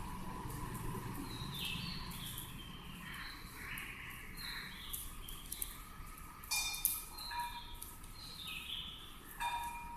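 Birds chirping in short repeated calls, with two brief sharp clicks a few seconds apart in the second half.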